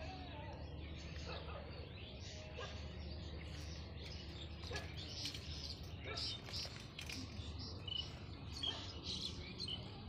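Birds chirping and calling in short, repeated notes, busier and louder in the second half, over a low steady rumble.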